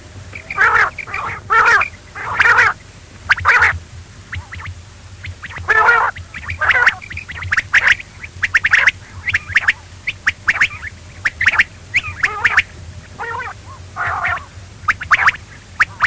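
Quail calling over and over: short calls, some in quick pairs, coming every second or so at an uneven pace, over a steady low hum.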